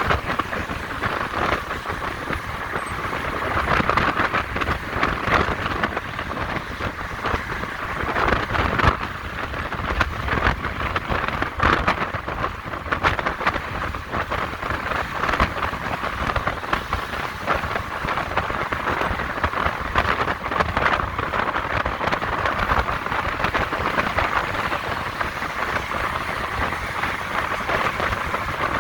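Steady rush of wind and road noise over the microphone of a moving electric motorcycle at road speed, with a constant crackle running through it and no engine sound.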